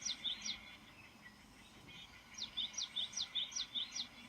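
A small songbird singing: phrases of quick, high, downslurred notes, each followed by a short chip, about five to a phrase. One phrase ends just after the start, and another runs from about two and a half seconds in to near the end.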